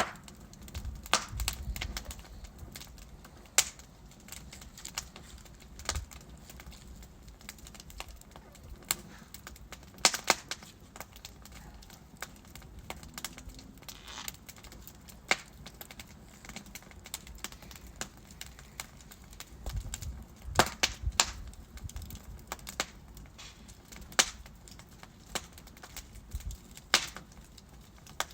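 Wood fire crackling in a fireplace: irregular sharp pops and snaps from the burning logs over a low steady hiss, with small clusters of pops now and then.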